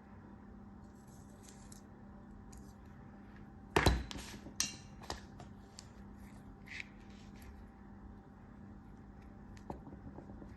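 Knife cutting through a block for ASMR: a sharp crack about four seconds in, then a run of crisp crunches and clicks, with a few more faint clicks near the end.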